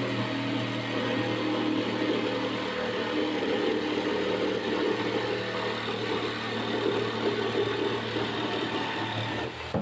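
Power tool motor running steadily under load while cutting a round hole in the tabletop for the extractor, stopping just before the end.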